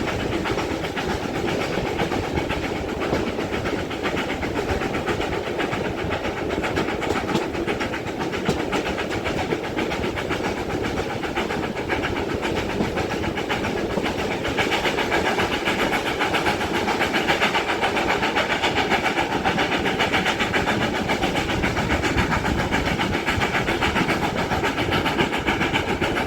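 GWR Manor-class 4-6-0 steam locomotive 7828 Odney Manor working hard up the grade, its rapid exhaust beats mixed with wheels clattering on the rails. The sound grows louder a little over halfway through.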